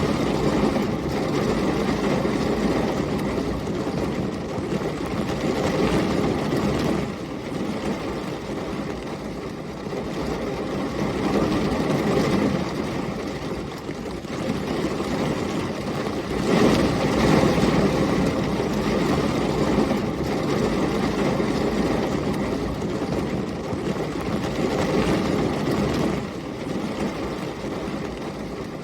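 Heavy rain with storm wind: a dense, steady rush with a deep rumble that swells and eases in gusts every few seconds, loudest about two thirds of the way through.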